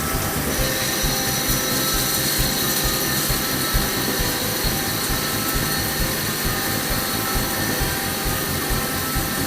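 CNC lathe running a cut: steady machine noise with several fixed whining tones, a high whine setting in about half a second in.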